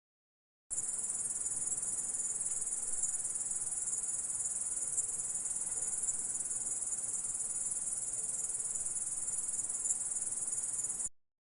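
Grasshopper stridulating: a steady, dense, high-pitched buzz that starts suddenly about a second in and cuts off abruptly near the end.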